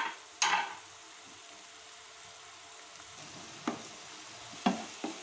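Chopped tomato, onion and ginger with spices sizzling in hot oil in a frying pan as the masala is sautéed (bhuna), with a few short knocks and scrapes of a wooden spatula stirring against the pan.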